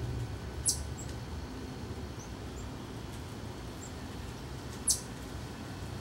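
Two sharp, high-pitched chip calls from a small songbird, about four seconds apart, with a few much fainter high chirps between them, over a low steady background rumble.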